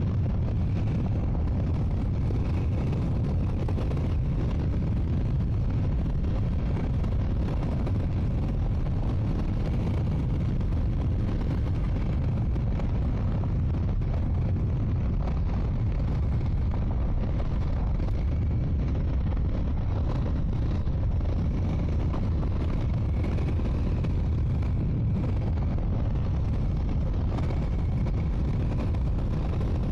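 Triumph Scrambler 400 X motorcycle's single-cylinder engine running steadily under way, a dense low rumble at an even level.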